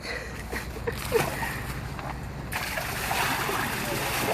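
Ice water in a pickup truck's bed being swirled by hand, splashing and sloshing, starting quietly with a few knocks and getting louder and steadier about two and a half seconds in.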